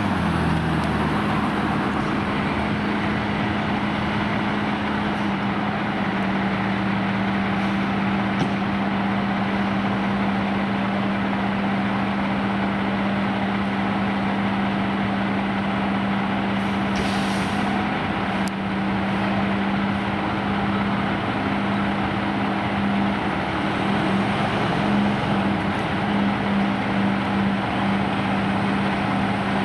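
Heavy truck engine running steadily, a constant low hum over engine and road noise.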